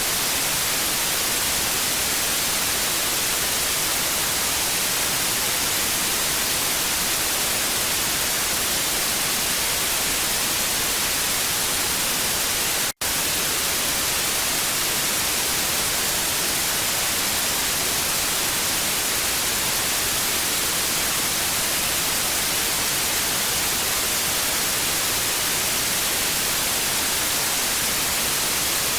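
TV static: a steady, even hiss, strongest in the high range. It cuts out for an instant about thirteen seconds in, then carries on unchanged.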